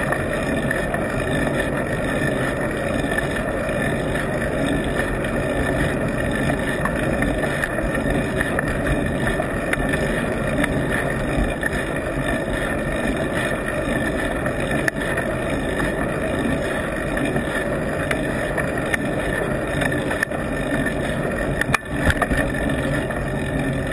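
Steady rush of wind on the microphone and rumble of the road, picked up by a camera on an adhesive mount on a moving bicycle. The rush drops briefly near the end, with a couple of clicks.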